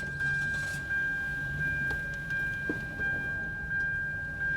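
Car's electronic warning chime dinging over and over, about one and a half dings a second, over the low hum of the idling car.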